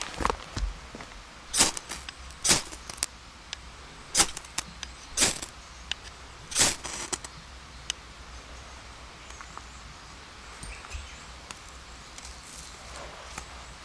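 Wood cracking and snapping over a campfire: about six sharp, loud snaps at irregular intervals in the first seven seconds, then only faint ticks.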